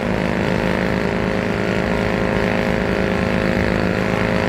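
An engine running steadily at a constant pitch, a continuous drone that cuts off abruptly at the very end.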